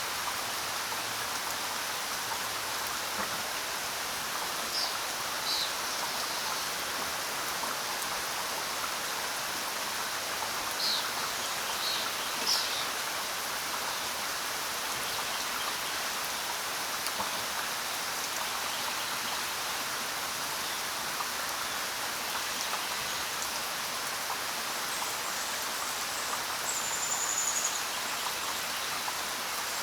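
Steady rainfall with a constant hiss, and a bird giving a few short high chirps now and then, with one brief high whistle near the end.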